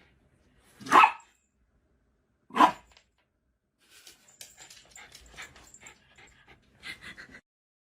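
A dog barks twice, loud and short, about a second and a half apart, followed by a few seconds of softer clicking and scuffling.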